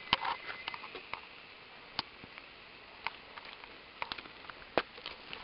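An irregular scatter of sharp clicks and taps, about a dozen in all, with a brief pitched sound just after the start.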